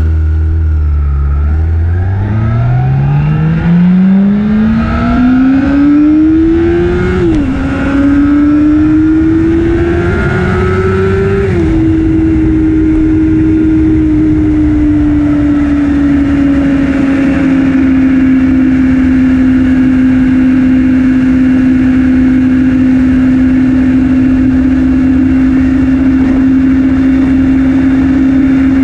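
Honda CBR600RR sport bike's inline-four engine accelerating hard: the engine note climbs steeply, drops sharply at an upshift about seven seconds in, climbs again, drops at a second upshift near the halfway mark, then settles into a steady cruise with the pitch sagging slowly.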